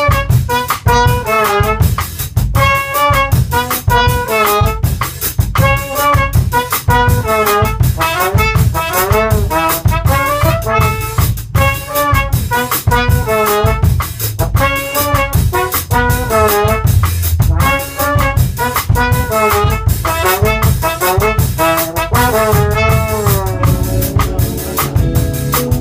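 Live band playing: a brass-toned lead melody in phrases over drum kit and bass.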